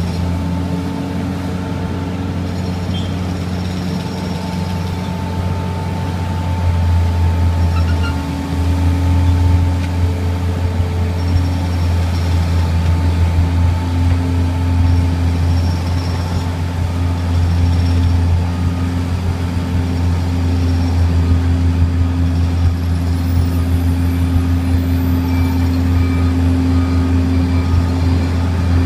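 Diesel engine of a Jet-Tetlaw 1-metre road planer running steadily with a deep hum, getting louder about seven seconds in.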